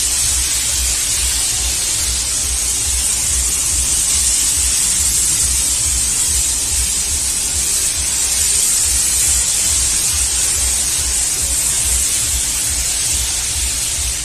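Car-wash pressure washer spraying water onto a car: a steady hiss of high-pressure spray over a low rumble.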